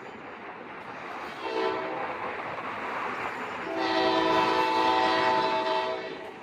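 Locomotive horn sounding a short blast about one and a half seconds in, then a long blast of several notes together, over the steady rumble of the passing train.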